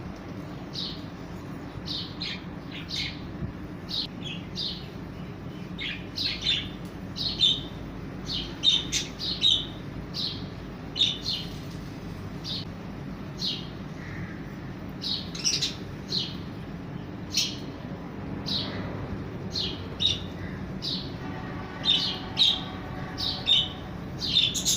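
Budgerigar chirping: many short, sharp chirps at an uneven pace, some in quick runs, over a faint steady low hum.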